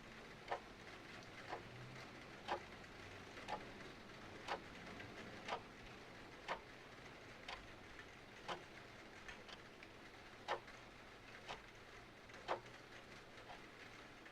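Clock ticking steadily about once a second over a soft bed of rain, with a few smaller irregular clicks between the ticks.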